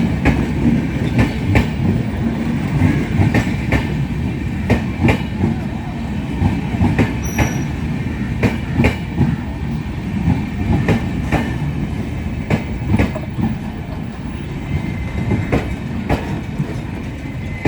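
Indian express train's coaches rolling past on the track: a steady low rumble with repeated sharp clacks of the wheels over rail joints, coming at uneven intervals.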